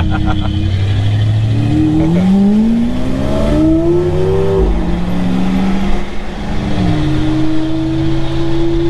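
Car engine accelerating, its note rising for a couple of seconds, then dropping in pitch about seven seconds in and running on at a steady note, as after a gear change.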